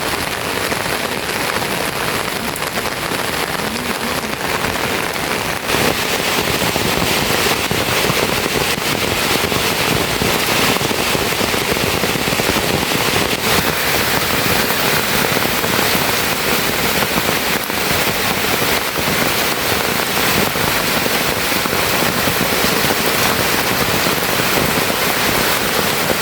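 Steady heavy rain falling, a dense even hiss that becomes suddenly louder about six seconds in.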